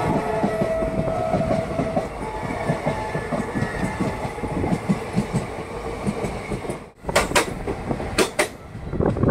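Train running on the rails: a loud rumble with a rapid clickety-clack of wheels over rail joints, under the tail of a horn that fades out about two seconds in. Near the end the rumble breaks off for a moment and a few sharp knocks follow.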